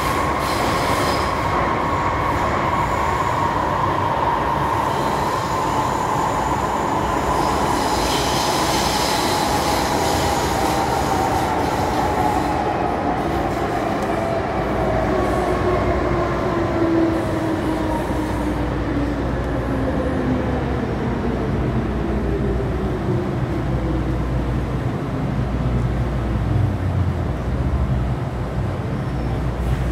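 MTR M-Train's traction motors whining over the running rumble of the train in the tunnel. The whine slides steadily down in pitch as the train slows.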